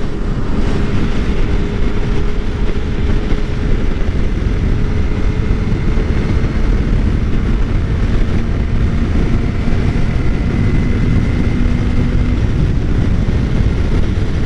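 Suzuki GSX-R600 inline-four engine running steadily at cruising speed, under heavy wind rush on the rider's microphone.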